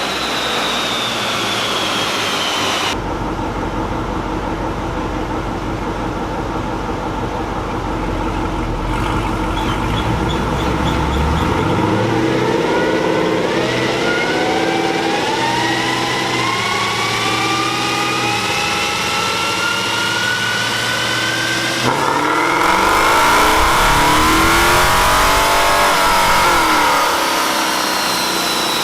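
Dodge Durango's 5.7 L Hemi V8 with long-tube headers and aftermarket exhaust, revving on a chassis dyno in several short clips joined together. In one clip the pitch climbs steadily through a full-throttle pull; near the end the engine revs up and back down.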